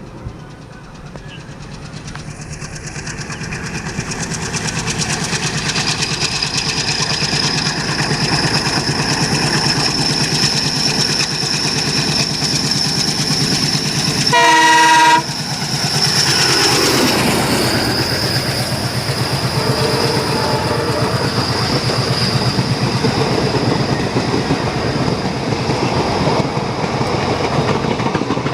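WDM-3A ALCO diesel locomotive approaching and passing at speed, its engine growing louder over the first few seconds. One short horn blast comes about halfway through, and the engine's pitch falls as it goes past. The coaches follow with a steady rhythmic wheel clatter.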